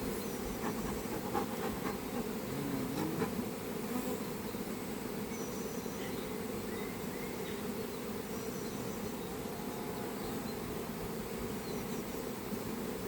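Many honeybees buzzing together: a steady low drone of a mass of bees in flight.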